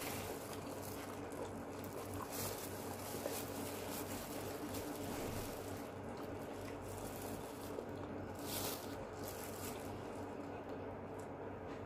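Close-miked chewing of a mouthful of rice and fried chicken, soft and wet, with a few short crinkles of a plastic food-handling glove over a steady low hum.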